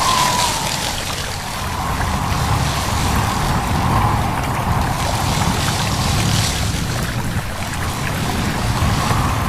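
Babbling stream running steadily, with wind rustling through leaves in gusts that swell and fade every few seconds.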